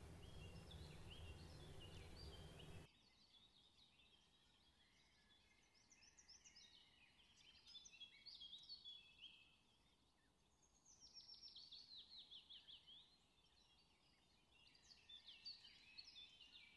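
Faint birdsong: several birds chirping and twittering, with a quick descending trill about eleven seconds in. A low hum and hiss under it cuts off suddenly about three seconds in.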